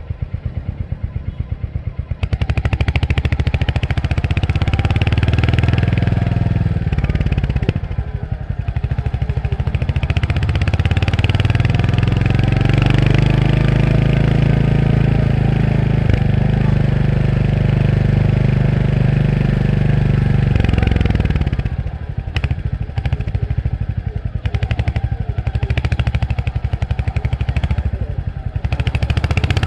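Royal Enfield Hunter 350's single-cylinder 349 cc engine under way, rising in pitch as it accelerates with a dip at a gear change about eight seconds in. It holds a steady pull, then drops back as the throttle closes about twenty-one seconds in, and picks up again near the end.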